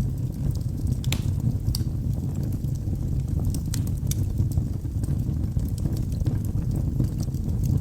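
Logs burning in a fireplace: a steady low rumble of flames with scattered sharp crackles and pops, a few loud snaps among them.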